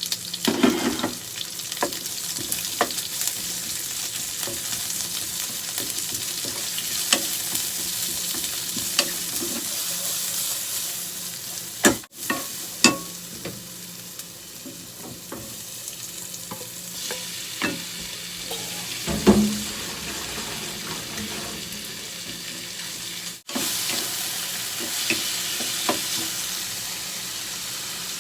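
Food sizzling in a hot frying pan while it is stirred, with a utensil knocking and scraping against the pan many times. The sound cuts out briefly twice.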